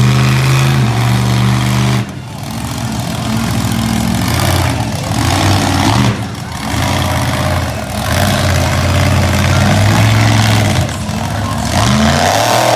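Monster truck engine revving hard and dropping back over and over as the throttle is worked, with brief lifts about two, six and eleven seconds in.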